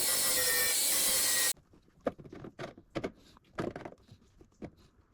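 Angle grinder grinding down welds on a steel body panel, a loud steady grinding that cuts off suddenly about a second and a half in. Then come a few scattered knocks and clicks of the tool being handled and set down.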